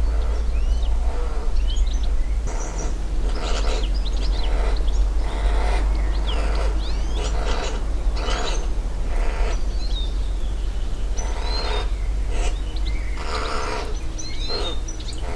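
Irregular scratching and scraping bursts, roughly one every half-second to second, which the recordist takes for a pine marten digging into a fallen tree after a rodent living inside. Small birds chirp over a steady low rumble.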